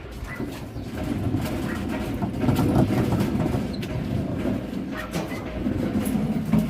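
A continuous rumbling rattle with many small knocks, like a heavy load rolling on small wheels over a rough surface.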